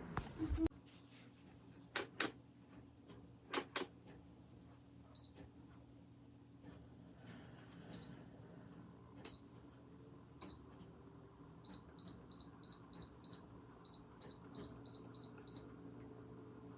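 A space heater's control panel beeping with button presses: short high single beeps a second or more apart, then a quick run of about a dozen at about three a second. There are a few sharp clicks early on, the loudest sounds, over a faint low fan hum; a louder blowing noise cuts off about half a second in.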